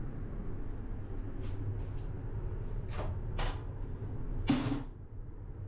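Steady low rumble of a Class 395 Javelin high-speed electric train running, heard from inside its on-board toilet. A few light clicks and knocks sit on top of it, the loudest about four and a half seconds in.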